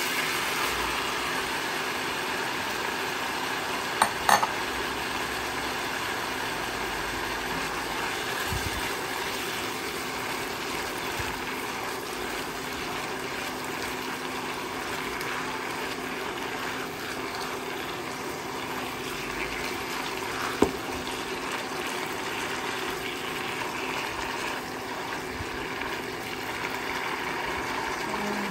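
Cabbage and ground beef sizzling and steaming in a wok after a splash of water is poured in, stirred with a spatula. A few sharp knocks of the spatula on the wok come about four seconds in, and a single one about two-thirds of the way through.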